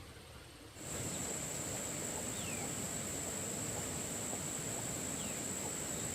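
Rural outdoor ambience: a steady high-pitched insect drone comes in about a second in, and a bird gives a short falling call twice.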